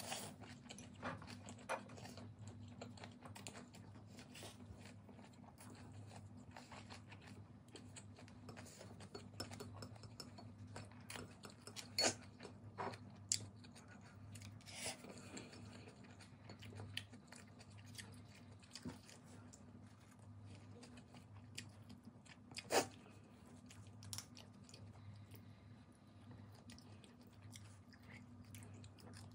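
A person eating close to the microphone: chewing and biting noodles and food, with scattered sharp clicks and taps from wooden chopsticks and dishes, a few of them louder, over a low steady hum.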